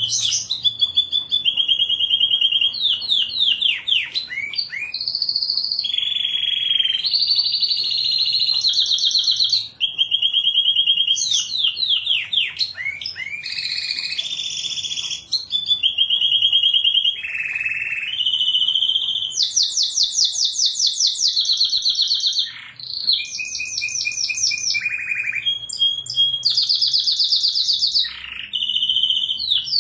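Domestic canary singing a continuous high-pitched song of rapid rolling trills, short held tones and quick downward-sweeping notes, switching from one phrase to the next every second or two.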